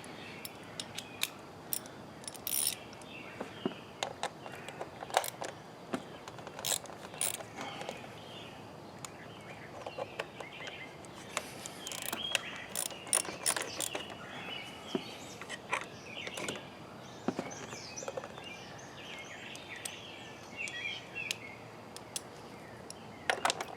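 A 7 mm ratcheting wrench clicking in short, irregular runs as tight bolts on an engine's coil cover are worked loose, with occasional sharp metal taps.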